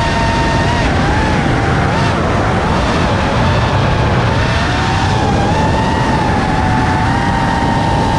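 FPV quadcopter's brushless motors whining, the pitch wavering up and down as the throttle changes, over a steady rush of wind on the onboard camera's microphone.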